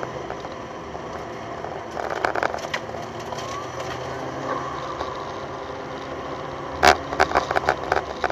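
McLaren P1's twin-turbocharged V8 and tyre noise heard from inside the cabin while driving, the engine note rising about three seconds in. A sharp knock near the end.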